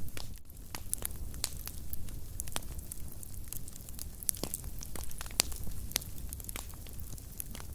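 Wood fire burning in a fireplace: irregular sharp crackles and pops over a low steady rumble of flame.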